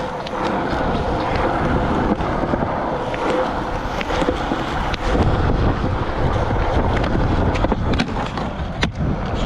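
Skateboard wheels rolling over concrete with a steady rumble, louder from about five seconds in, broken by a few sharp clacks of the board, the sharpest near the end.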